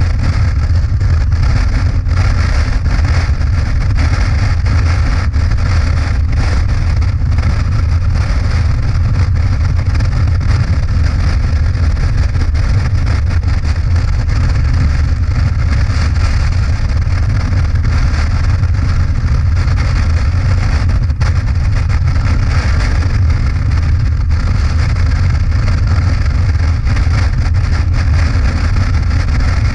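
Motorcycle riding at a steady speed: a loud, continuous engine and road rumble with no change in pace.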